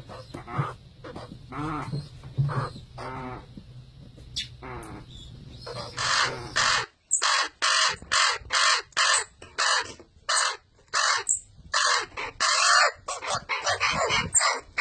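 Baby birds giving harsh, crow-like begging calls: scattered calls at first, then about seven seconds in a run of louder calls, several a second.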